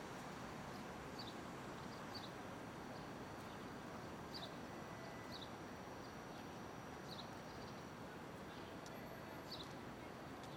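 Steady, low city street hum with a small bird chirping over it, short high chirps repeated roughly once a second.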